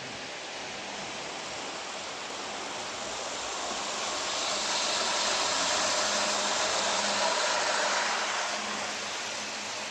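Model train running on its track past the microphone, over a steady hiss: its running noise with a faint motor whine swells to a peak midway and then fades as it goes by.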